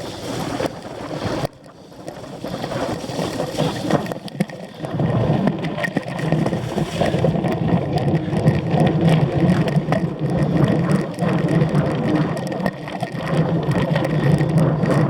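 Cyclocross bike ridden hard over rough ground: tyres on dirt and grass, with the chain and frame rattling and wind buffeting the microphone.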